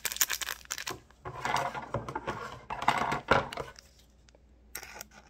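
Crinkling and clicking of a small plastic glitter packet being handled and cut open with scissors, in uneven bursts with a pause near the end.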